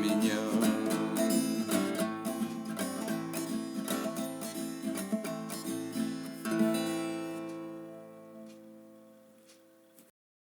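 Guitar strumming the closing bars of the song, then one final chord about six and a half seconds in that rings out and fades away before the sound stops abruptly.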